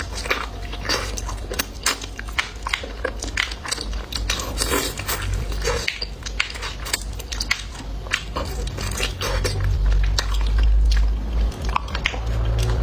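Close-up chewing and crunching of a chicken head, many short wet crunches and clicks of bone and cartilage being bitten, with the odd tap of cutlery. A low rumble sets in about ten seconds in.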